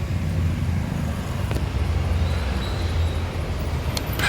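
Exhaust of the Honda CB300R's 286cc single-cylinder liquid-cooled engine running steadily, with no revving.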